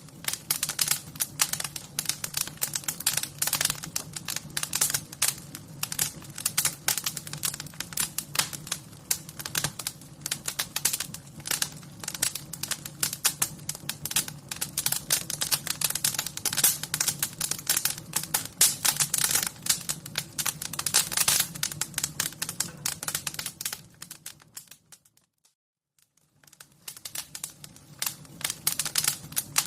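Wood fire crackling, with dense, irregular pops and snaps over a low steady hum. About 25 seconds in, it fades out briefly to near silence, then fades back in.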